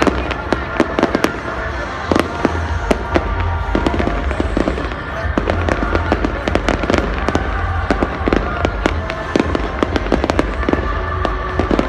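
Fireworks going off without a break: a dense, irregular run of sharp bangs and crackles over a steady low rumble.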